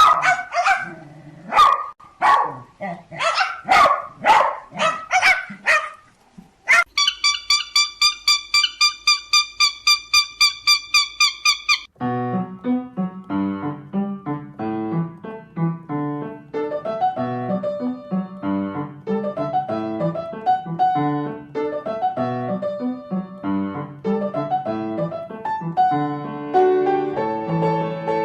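Barking for the first several seconds, then a fast, even run of identical high beeps, about four or five a second, for about five seconds. From about halfway through, piano music plays for the rest.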